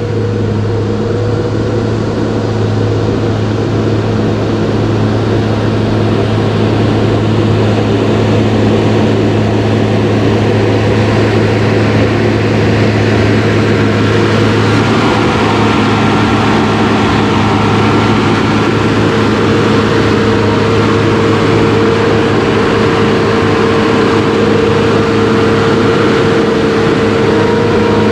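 An engine running steadily with a droning hum, growing a little louder and higher-toned about halfway through.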